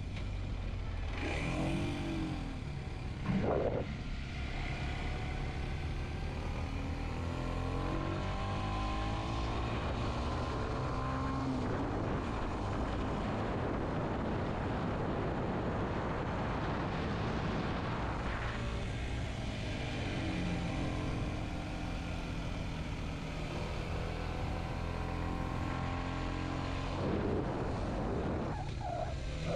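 Kawasaki Z125's small single-cylinder four-stroke engine running under way, its pitch climbing as it accelerates and dropping at gear changes.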